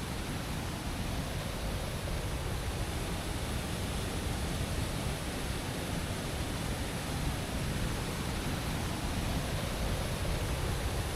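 Steady rushing noise of a large waterfall cascade in full flood, swollen by heavy rain and flowing at its strongest.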